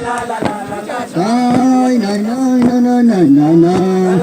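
Voices singing a melody in long held notes that step up and down, over sharp percussive beats about twice a second.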